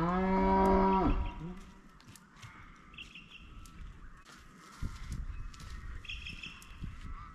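Cattle mooing: one long call that rises in pitch, then holds and stops about a second in.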